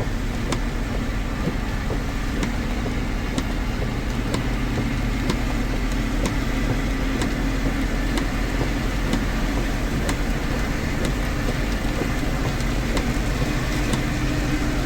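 Steady road and engine noise inside a moving car's cabin, with a faint tick about once a second.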